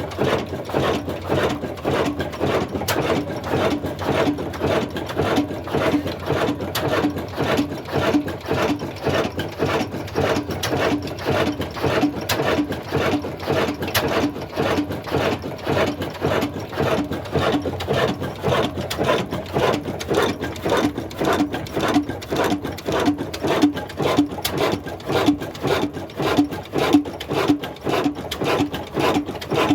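Old Ruston Hornsby diesel engine running at a slow, even beat of about two a second.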